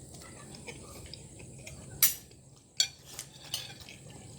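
Metal cutlery clinking against a plate while eating: two sharp clinks about two seconds in and a lighter one a moment later.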